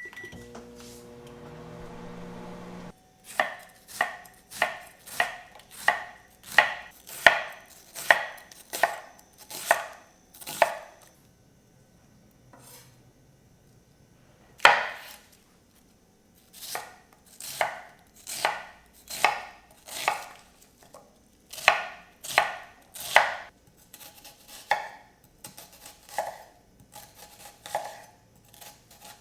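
Knife chopping food on a cutting board in slow, even strokes, a little under two a second, each with a short ring. A run of about a dozen cuts is followed by a pause broken by one hard chop, then a second run of cuts.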